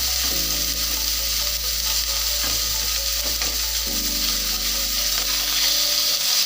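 Shrimp, calamari and shellfish sizzling steadily as they fry in hot oil in a frying pan.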